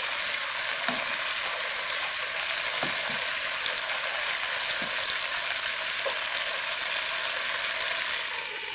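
Sliced okra, potato and tomato sizzling steadily as they fry in a frying pan. A wooden spatula stirs them, knocking against the pan a few times.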